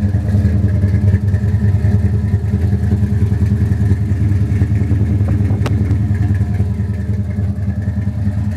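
A 1964 Dodge 426 Max Wedge big-block V8 idling steadily, with a single brief click a little past the middle.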